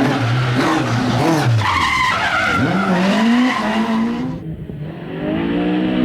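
Rally car engine revving up and down with tyres squealing as it slides. About four and a half seconds in the sound changes abruptly to a steadier engine note.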